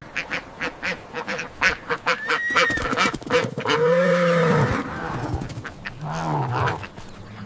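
African geese honking: a run of short, rapid calls, then two longer drawn-out honks about four and six seconds in.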